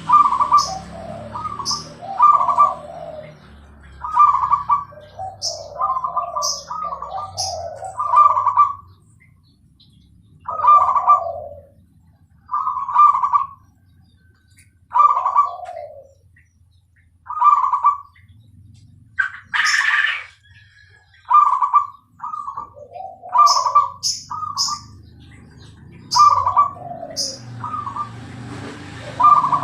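Perkutut (zebra dove) cooing over and over in short, clipped phrases every second or two, sparser in the middle, with short high chirps alongside.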